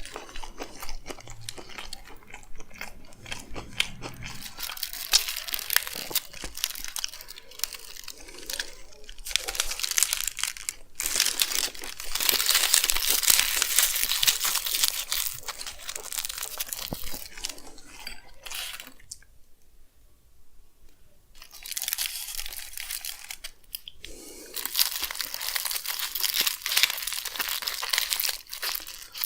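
Close-miked eating of chicken frankie wraps: biting, tearing and chewing with a steady crackly crunch, along with some crinkling. It gets louder around a quarter and again near the end, with a short lull in between.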